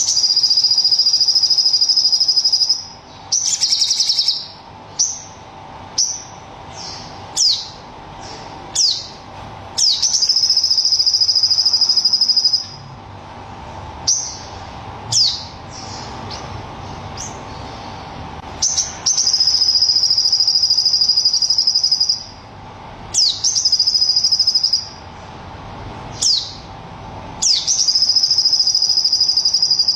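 A sogon songbird singing its 'tembakan': long, high, rapid trills of about three seconds each, four times, with short, sharp down-slurred notes between them. Bird keepers prize this burst of song.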